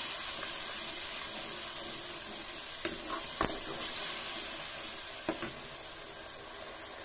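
Ginger, garlic, green chilli and tomato paste sizzling steadily in hot mustard oil in a kadhai as it is fried down, stirred with a wooden spatula that knocks against the pan a few times.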